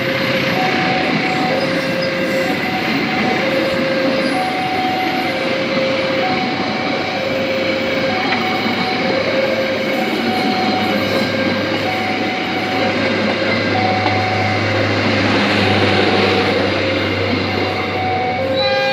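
Passenger train rolling past over a level crossing, with steady wheel-on-rail noise and a low hum that swells in the second half. Over it the crossing's warning alarm rings in an even two-tone alternation.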